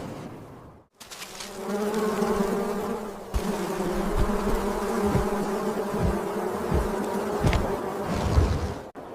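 Insects buzzing in a steady drone, after a brief dropout near the start, with soft low thumps about once a second in the second half.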